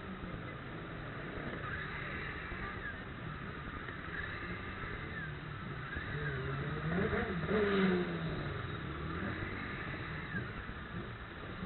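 Road traffic, with one vehicle passing loudest about seven to eight seconds in, its engine pitch rising and then falling as it goes by.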